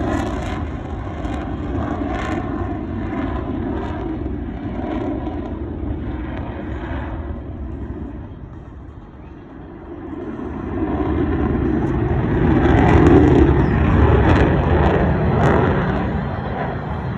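Jet noise from an F-35 fighter's single F135 turbofan as it flies a display, a loud continuous rumble that fades to its quietest about halfway through, then swells again to its loudest a few seconds later as the jet comes back around.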